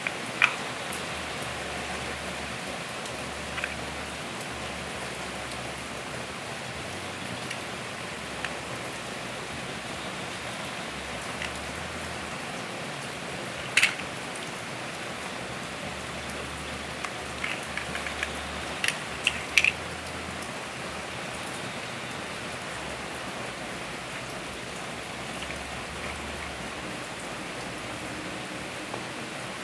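Steady even hiss in the background, with scattered sharp clicks of plastic Lego pieces being handled and pressed together, including a quick cluster of clicks about two-thirds of the way through.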